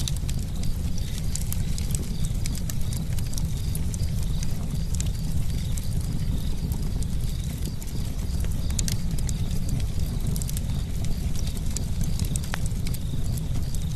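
Campfire crackling: many small, sharp pops and snaps, irregularly spaced, over a steady low rumble.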